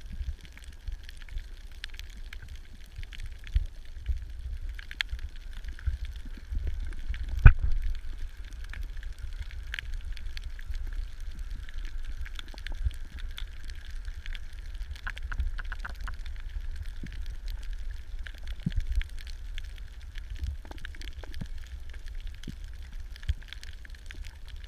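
Underwater sound on a coral reef: a steady low rumble with scattered clicks and crackles, and one sharper knock about seven and a half seconds in.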